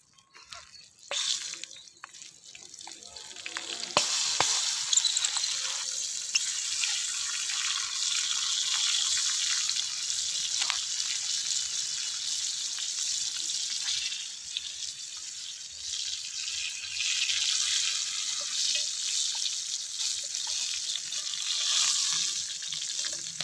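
Hot oil sizzling in a frying pan as chillies, cloves, shallots and garlic fry, a steady crackling hiss. It builds over the first few seconds and settles into a steady sizzle from about four seconds in.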